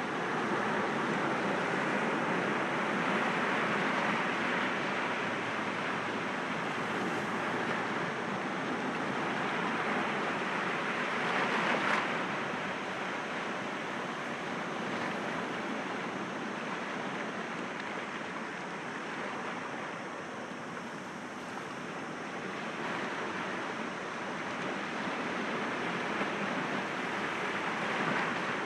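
Sea waves breaking against rocks: a continuous surf wash that swells and ebbs, with one sharper surge about twelve seconds in.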